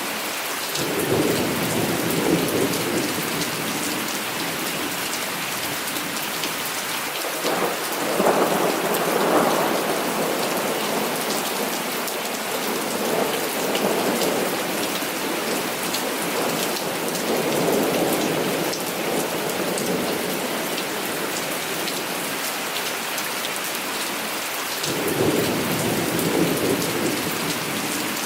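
Heavy rain falling steadily, with thunder rumbling about five times: once about a second in, loudest around eight seconds in, again in the middle, and once more near the end.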